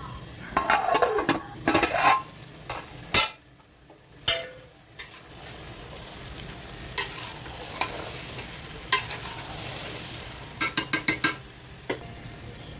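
Food sizzling in a cooking pot while a utensil stirs and scrapes against it, with a quick run of sharp taps on the pot near the end.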